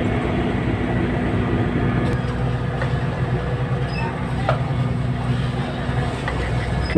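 A fishing boat's engine running steadily, a constant low hum.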